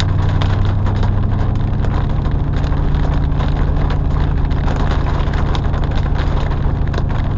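Truck engine running steadily, heard from inside the cab, under a constant hiss of rain with many small ticks of drops striking the vehicle.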